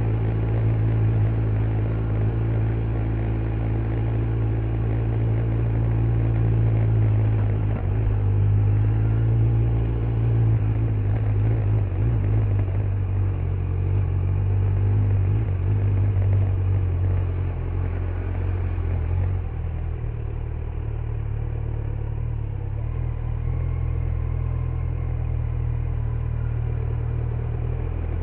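Kawasaki Z900's inline-four engine running through its stock exhaust at a low, steady engine speed. The engine note shifts slightly about a third of the way in and drops a little in level past the middle.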